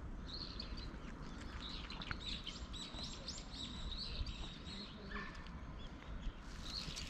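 Small birds chirping repeatedly, a busy run of short high chirps, over a low outdoor rumble.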